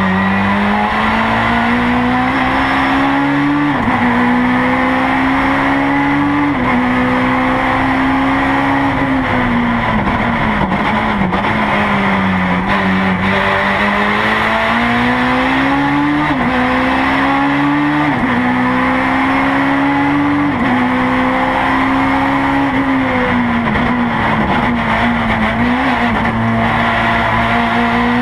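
Honda S2000 race car's engine heard from inside the cabin at full throttle, its pitch climbing through each gear and dropping suddenly at each upshift, about five times. Around the middle the pitch falls away as the car slows, then climbs again.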